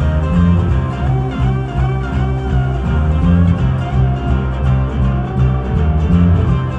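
Ukulele and bass playing an instrumental: a plucked melody that wavers in pitch over a steady, repeating bass line.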